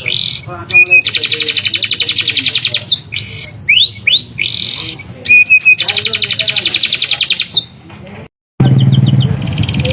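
Domestic canary singing loudly: quick rising whistled notes and two long rolling trills of about a second and a half each. After a brief cut near the end, a lower hum and fainter chirping follow.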